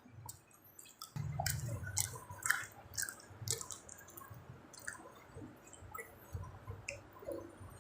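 Close-up chewing of food, with irregular wet smacks and clicks of the mouth picking up about a second in.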